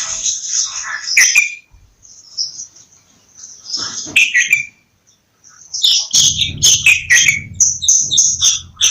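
Bulbul calling: short bursts of chirping notes, then a quick run of repeated chirps over the last few seconds.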